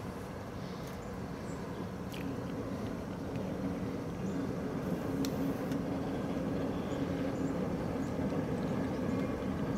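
Passenger train rolling past at a distance: a steady rumble of wheels on rails with a low engine hum, growing slightly louder.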